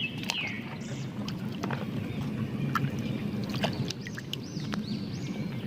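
Water sloshing and splashing as muddy plastic toys are washed, with light clicks and taps of the plastic being handled.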